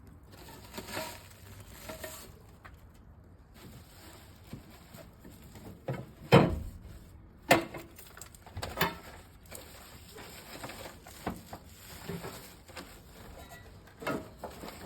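Parts of a camp stove being handled and fitted together: irregular knocks and rustling, with two sharp knocks about six and seven and a half seconds in.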